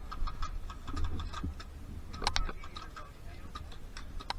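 Airsoft guns firing in a skirmish: a scattered, irregular series of sharp clicks and pops, loudest about two seconds in and again in a quick cluster near the end.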